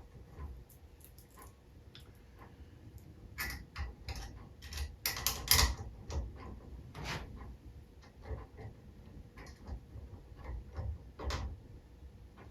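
Light clicks and taps of small metal engine parts being handled and fitted during hand assembly, irregular, with a cluster of louder clicks about halfway through and one more near the end.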